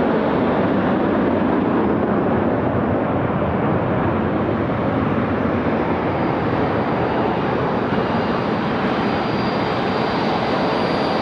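Boeing C-17A's four Pratt & Whitney F117 turbofans running loud and steady just after landing, with a faint high turbine whine coming in about halfway.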